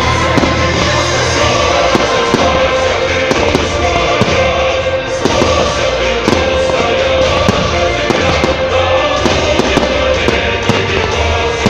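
Fireworks bursting and crackling in rapid, irregular bangs over loud music.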